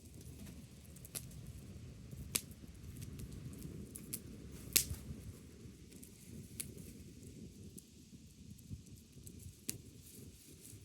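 Wood fire burning, with a low steady rumble and irregular sharp crackles and pops scattered through it; the loudest pop comes about halfway through.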